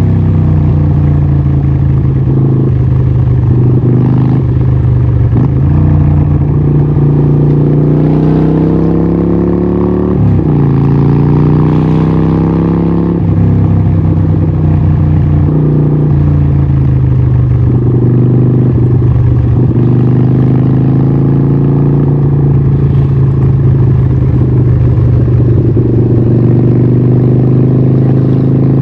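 Harley-Davidson 1200 Nightster's 1200cc Evolution V-twin running through a Vance & Hines exhaust. The engine note climbs gradually, drops sharply about ten seconds in, climbs again, then holds fairly steady.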